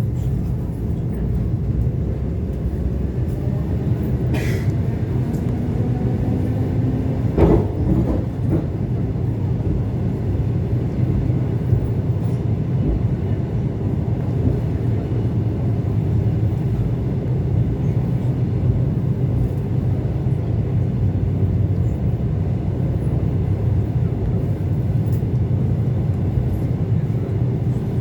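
ET2 electric multiple unit running between stations, with a steady rumble of wheels and running gear. A sharp knock comes about seven and a half seconds in, with a weaker one a few seconds before it.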